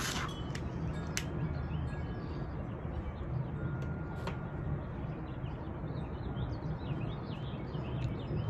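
Small birds chirping, thickening in the second half, over a steady low background rumble, with a few soft clicks early on. A torch lighter's hiss cuts off right at the start.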